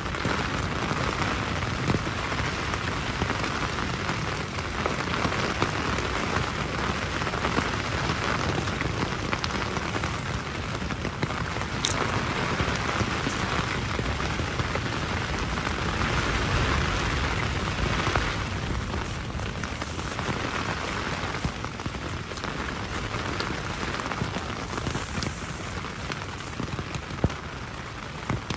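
Steady rain falling on a tent, with scattered louder single drops landing.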